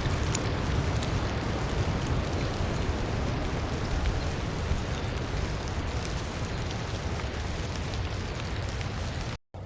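Steady, dense water noise, close to the trail camera's microphone.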